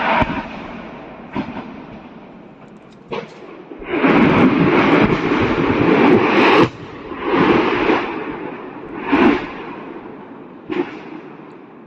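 Ammunition cooking off in a burning depot: a string of explosions and rumbling blasts, the heaviest rolling on for about three seconds in the middle, with sharp cracks between them.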